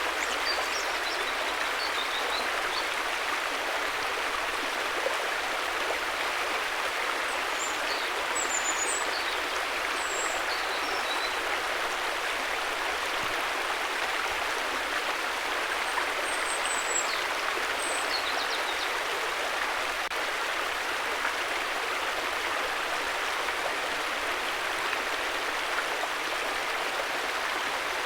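River water flowing steadily, an even rush with no break or change. A few faint, short high chirps sound over it in the first half and again a little past the middle.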